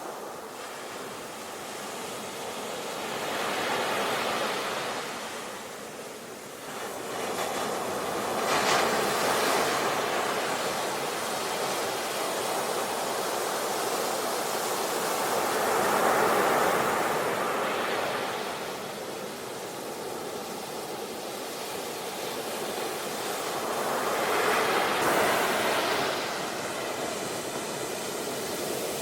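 Sea waves breaking on a shore, a steady wash of surf that swells and eases every seven or eight seconds.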